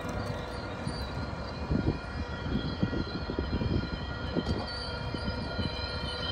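MBTA commuter rail train rolling along the station track: a steady mechanical drone with fixed whining tones, and low knocks from the wheels about two to four seconds in. A high whine grows stronger in the second half, likely as the train brakes to a stop.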